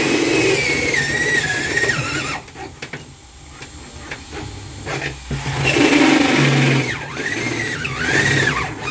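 Electric drill boring into a fridge body in two runs of a few seconds each, its motor whine dipping and rising in pitch as the bit bites.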